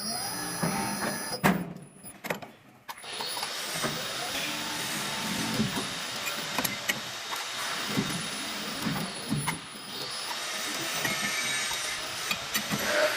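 Metal-forming workshop machine running with a steady mechanical hiss and scattered clicks and knocks. It stops briefly about two seconds in, then runs on.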